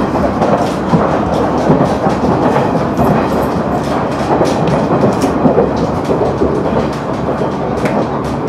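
KiHa 100 diesel railcar running at speed, heard from inside the car: a steady rumble of wheels on rail with sharp clicks from the rail joints scattered through it.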